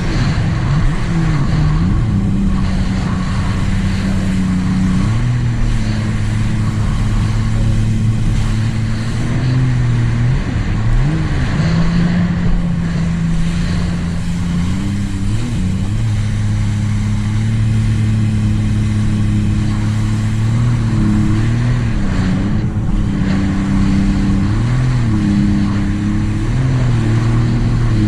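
2018 Sea-Doo RXT-X 300 personal watercraft's supercharged three-cylinder engine, fitted with a free-flow exhaust, running steadily at cruising speed over the hiss of water and wind. Its pitch dips and comes back up briefly several times as the throttle is eased off and reapplied.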